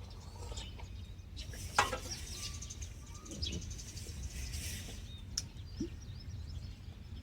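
Outdoor ambience: a steady low rumble of wind on the microphone with a few bird chirps, and a single sharp knock about two seconds in.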